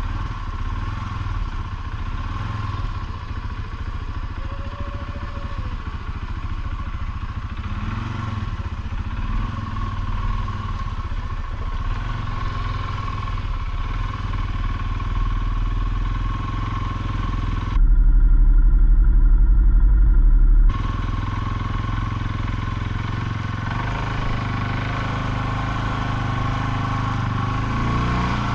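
ATV engine running steadily at trail-riding speed. About two-thirds of the way in, a loud low rumble swamps it for about three seconds, then the engine sound returns.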